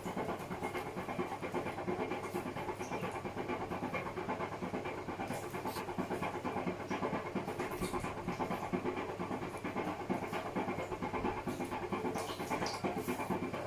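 Hotpoint Smart Tech WMFUG942 washing machine running a wash with a box of dog food in the drum: a steady, even rushing sound with a faint hum and scattered light ticks.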